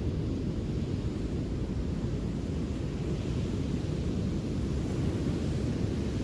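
Steady low rumble of wind buffeting the microphone, with a fainter even hiss above it.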